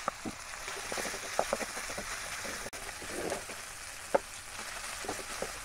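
Chopped onions and ginger-garlic paste sizzling in oil in an aluminium kadai, sautéing until the raw smell of the paste cooks off. A wooden spatula scrapes and taps the pan now and then, with one sharp knock about four seconds in.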